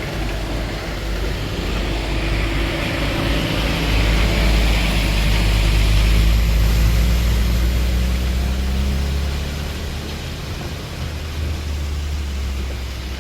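A motor vehicle engine running close by, growing louder to a peak about halfway through and then easing off, as a vehicle passes along the flooded road.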